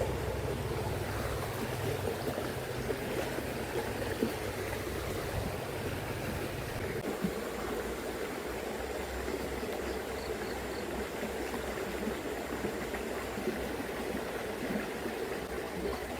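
Swift, shallow river current flowing steadily.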